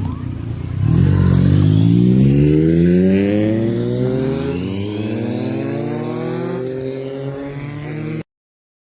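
Motorcycle engine accelerating, its pitch rising steadily, then dropping and rising again as it shifts up a gear about halfway through; the sound cuts off suddenly near the end.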